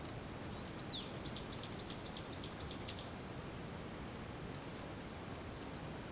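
Steady rain, with a bird calling about a second in: one arched note, then a quick run of about seven short, sharp repeated notes, some four a second.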